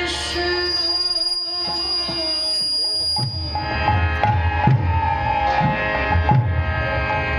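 Kirtan music without singing: held harmonium chords, with hand-drum strokes coming in about three seconds in.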